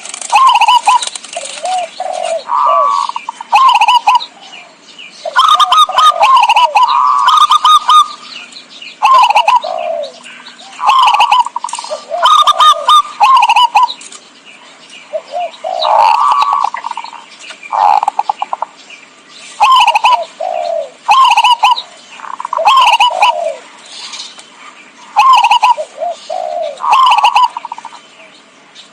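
Zebra dove cooing its song: short phrases of quick, rolling notes, repeated every second or two.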